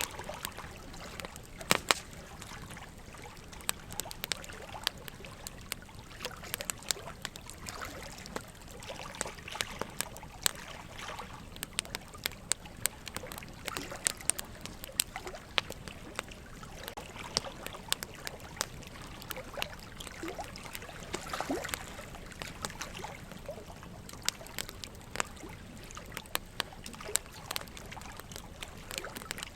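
Wood fire burning in a fireplace, crackling with irregular sharp pops, a couple of louder snaps about two seconds in, over a steady trickle of running water.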